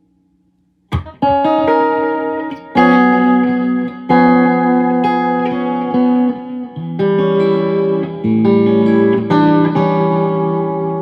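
Electric guitar played through the modulated delay channel of a Visual Sound Dual Tap Delay pedal, starting about a second in. Chords and notes are struck several times and ring into overlapping repeats that waver slightly in pitch.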